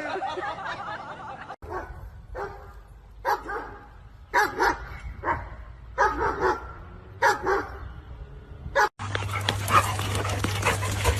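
A dog barking in short separate barks, about seven of them over six seconds. Near the end a steady low hum and hiss take over.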